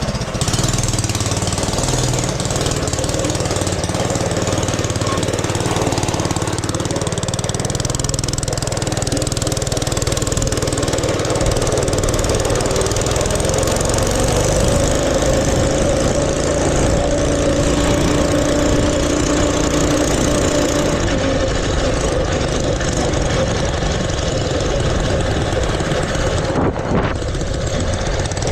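A mini bike's small engine running steadily, as heard while riding it.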